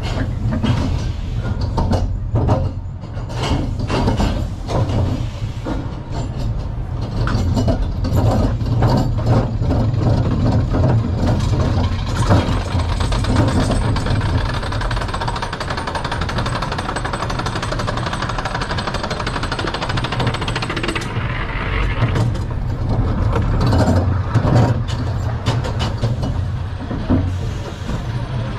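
Knoebels Flying Turns bobsled coaster train running: a steady low rumble with rapid clattering and knocking from the train, smoothing into a rushing noise for several seconds in the middle before the clatter returns.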